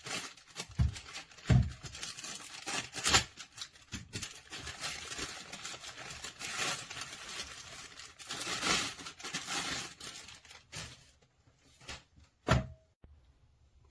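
Irregular rustling and crinkling, like packaging being handled, with several sharp thumps; it quietens near the end after a last knock.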